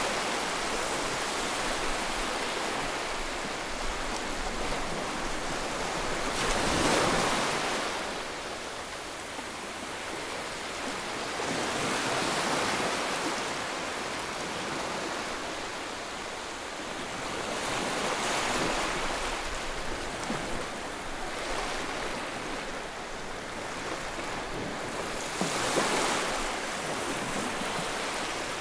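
Ocean surf: waves breaking in slow swells about every six seconds, with a steady hiss of water between them.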